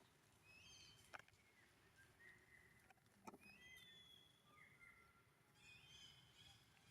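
Faint, repeated high chirping animal calls over a quiet outdoor background, with two sharp clicks about one and three seconds in.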